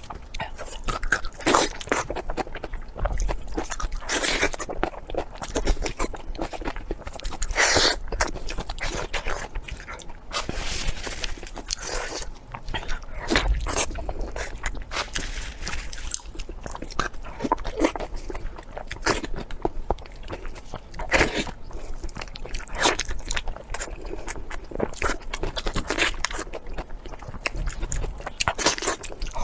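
Close-miked eating: a person biting and chewing food, with repeated irregular crunches.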